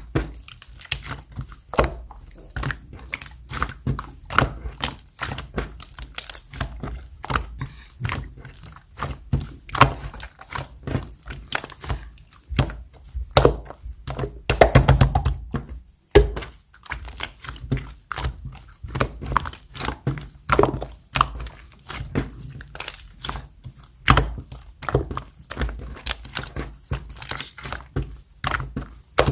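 Clear yellow slime being pressed and squished by hand, giving a run of sticky clicks and pops several times a second, with one longer, louder squish about halfway through.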